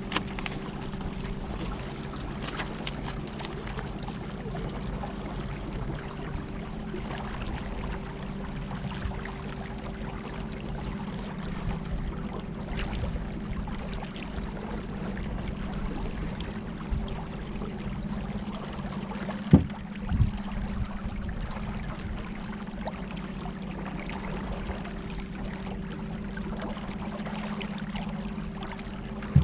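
Electric trolling motor of about 50-pound thrust running steadily, a constant two-tone hum, with water rushing along the hull. Two sharp knocks come about two-thirds of the way in.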